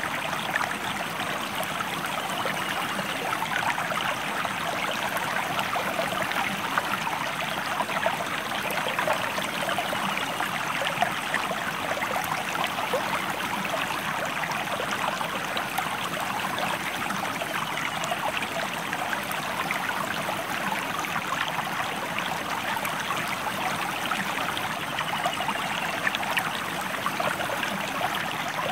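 Stream water flowing steadily, a continuous rushing, bubbling sound that holds unchanged throughout.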